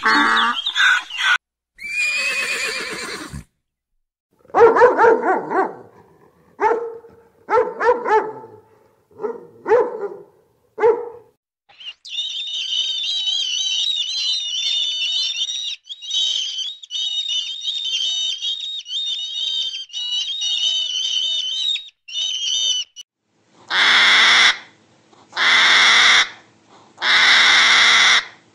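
A string of animal calls. A donkey's bray ends in the first second or two, then a dog barks in short bursts several times. A long high, rapid twittering follows, and near the end come loud harsh rasping calls about every two seconds.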